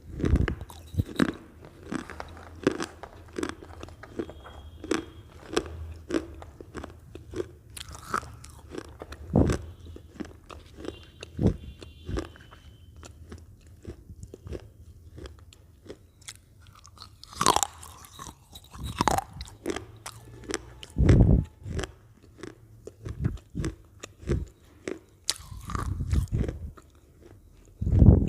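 Close-miked chewing of Lay's potato chips: a steady run of crisp crunches, about two a second, with several louder bites scattered through.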